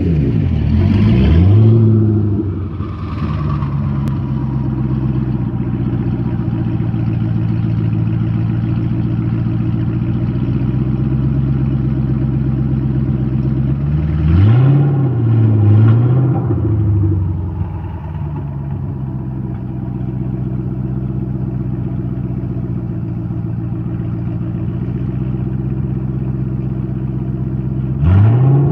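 Twin-turbocharged 5.0-litre V8 of a Ford Mustang idling, blipped up in short quick revs that rise and fall back: near the start, twice in the middle and once near the end.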